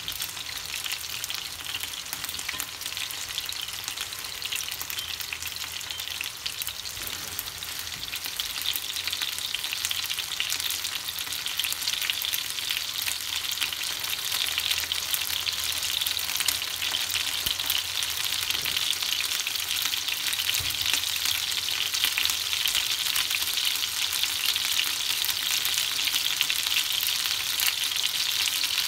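Chicken wings sizzling and crackling as they pan-fry in a nonstick frying pan. The sizzle grows louder about eight seconds in, then holds steady.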